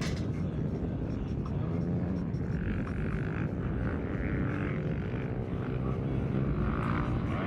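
Dirt bike engine running with a steady drone.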